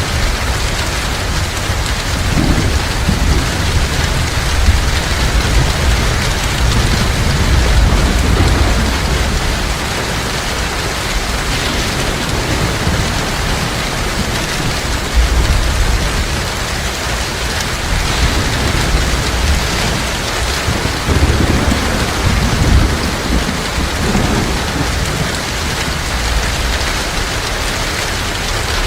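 Heavy rain pouring steadily, with low rolling thunder rumbling underneath.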